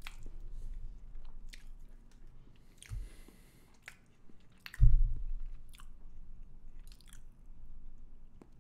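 A person chewing mouthfuls of chocolate-coated cake close to a microphone, with scattered small wet clicks. A dull low thump stands out just before the five-second mark, with a smaller one about three seconds in.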